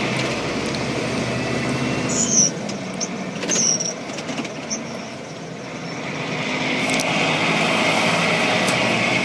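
A truck running as it drives slowly, with a steady engine hum. There are two short, sharp high sounds about two and three and a half seconds in, and the running noise grows louder from about six seconds on.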